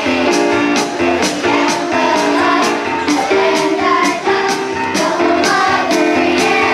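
Children's school chorus singing a song in unison over accompanying music with a steady beat of about two strokes a second.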